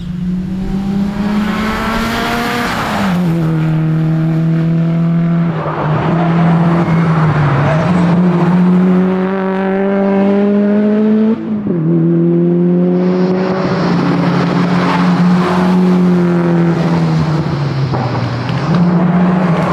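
Subaru WRX STi Spec C's turbocharged flat-four engine under hard driving. Its note climbs steadily through each gear, drops sharply at upshifts about three seconds in and again near twelve seconds, and sags lower briefly in the middle and near the end as the car slows for corners.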